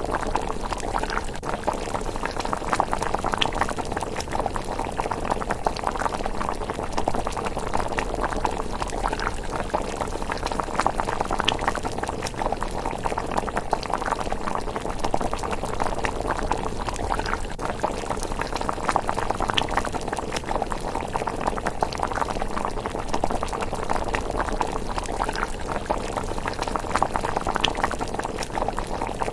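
A pot of thick rice porridge bubbling at a simmer: a steady, dense bubbling with many small pops.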